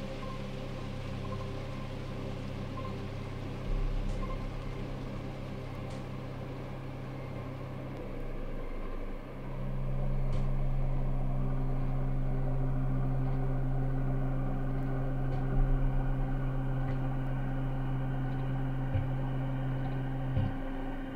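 Ambient synthesizer drone from a Casio CZ-230S run through modular effects: steady low held tones layered with a rain-like hiss. About nine seconds in the chord shifts and swells louder, and low pulsing swells come in twice.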